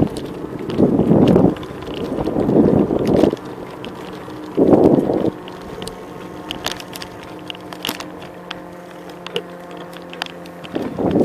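Wind buffeting the microphone of a moving bicycle in several loud gusts of about a second each, with a steady hum and light ticking in the quieter stretch between them.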